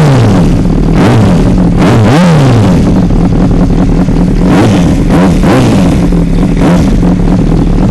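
2005 Honda CBR600RR's inline-four engine through a Two Brothers carbon-fibre exhaust, idling with a series of quick throttle blips, each rev rising and falling back to idle.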